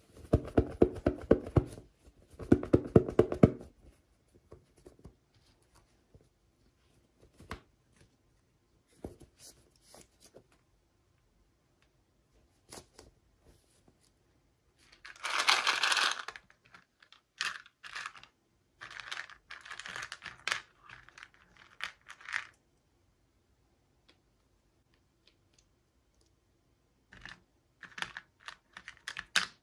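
Toy packaging being torn open and handled. There are two rasping tears in the first few seconds, a louder tearing crinkle about halfway through followed by shorter rustles, and a few light clicks and taps near the end.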